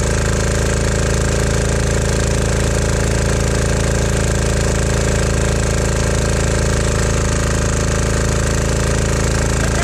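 Small Chinese 196cc 168F single-cylinder diesel engine generator running steadily under heavy electrical load on #2 diesel, during a maximum-load test.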